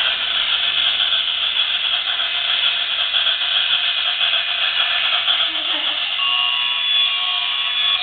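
Battery-powered toy train running steadily on its track, a continuous whirring rattle; a few faint steady tones join about six seconds in.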